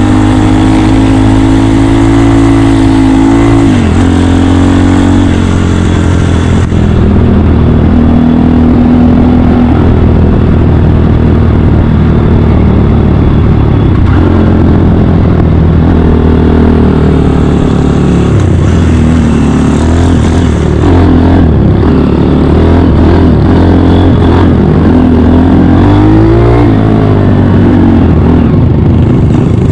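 Honda Dax 150cc single-cylinder engine running on the move, heard from on the bike. The engine note drops and climbs again a few seconds in and once more near the end.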